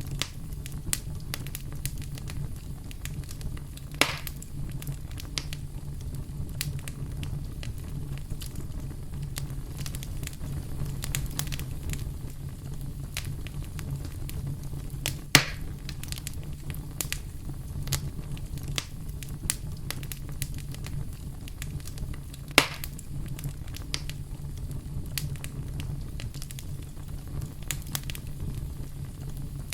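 Campfire crackling over a steady low rumble, with many small clicks and three sharp, louder pops spread through it.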